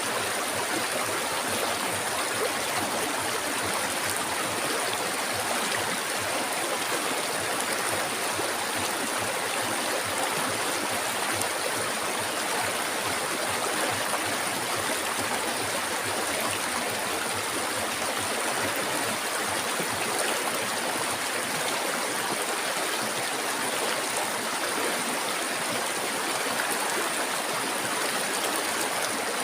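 River water flowing and rushing over rocks in an even, unbroken wash, with a steady high hiss above it.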